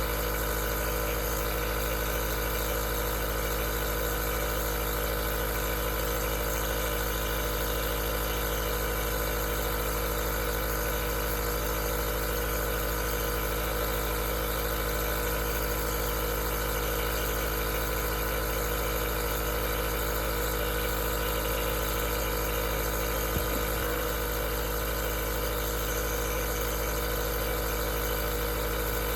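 An aerosol nebulizer's compressor running steadily: an even motor hum layered with hiss, unchanging in pitch and level.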